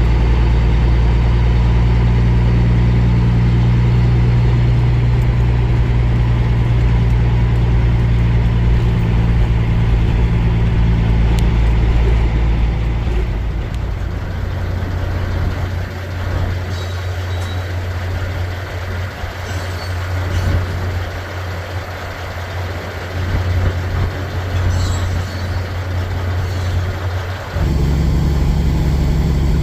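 Semi truck's diesel engine running steadily. Its note drops and turns quieter about 13 seconds in, then steps back up near the end.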